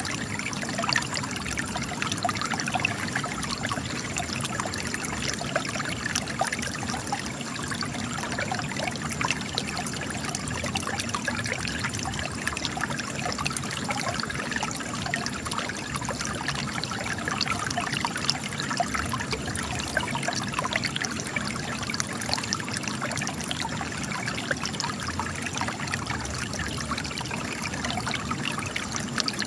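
Spring water trickling and splashing steadily as it gushes from cracks in rocks.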